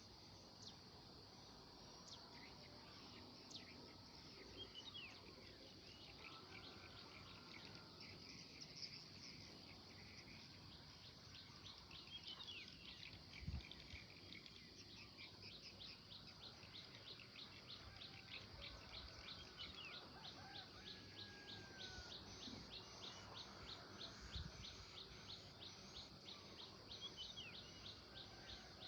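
Faint morning birdsong: scattered chirps and short whistles over a steady high hiss. From about twelve seconds in, a high call repeats rapidly and evenly, several notes a second. Two dull low thumps come through, one in the middle and one near the end.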